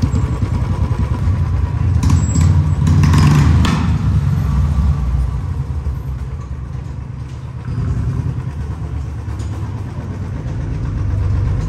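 Royal Enfield single-cylinder motorcycle engines running at low speed inside an enclosed garage room. There is a brief rise in revs about three seconds in, then a steadier idle.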